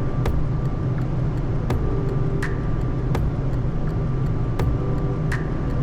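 Steady low rumble of airflow and engines inside a Boeing 787's flight deck on final approach, with about six sharp clicks spread through it.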